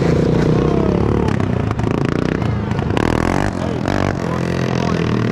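Small dirt bike engines running and revving, their pitch rising and falling, with a rattling clatter alongside.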